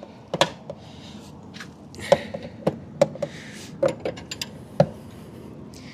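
A metal wrench clicking and knocking irregularly against the nut of an outboard's oil drain fitting as it is worked counterclockwise to loosen it, with a few short scrapes between the clicks.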